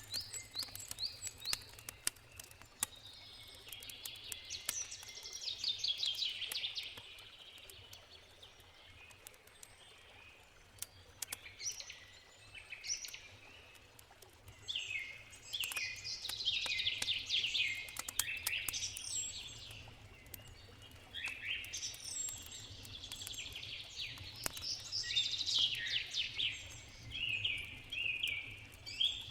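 A songbird singing long phrases of rapid repeated notes, three bouts with pauses between, over the sharp pops and crackles of a wood campfire.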